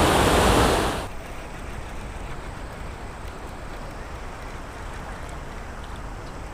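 Rushing water of a creek waterfall spillway, loud for about a second, then cutting off suddenly to a much quieter steady low rumble.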